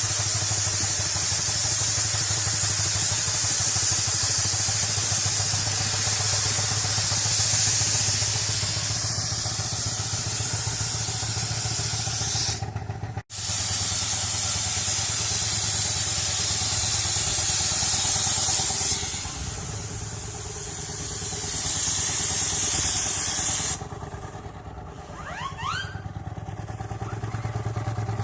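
A 4-inch scale Burrell steam traction engine running on the road, with a rapid steady beat and a strong hiss of steam. The hiss eases near the end.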